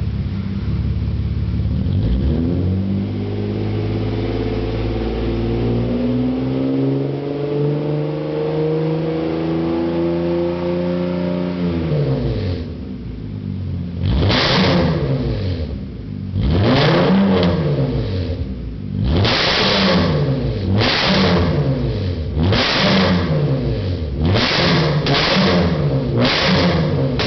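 Cadillac Catera V6 through its modified exhaust, revved slowly and evenly up for about ten seconds and let fall back to idle. It is then blipped over and over, about one quick rev every second and a half, all kept under 4000 rpm.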